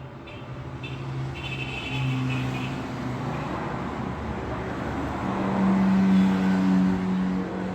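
Road traffic: a motor vehicle approaching and passing, its engine hum and tyre noise rising to a peak about six seconds in, then easing off.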